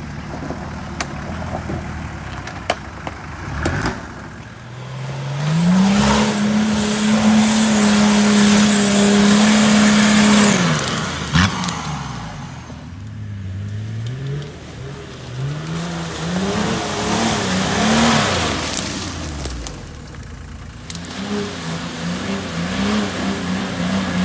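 Nissan Patrol off-road 4x4 engines revving under load in mud. One engine climbs to a high, held note for about five seconds while its tyres churn through a muddy puddle, then drops off. Several shorter rises and falls of engine speed follow as the vehicles work over rough ground.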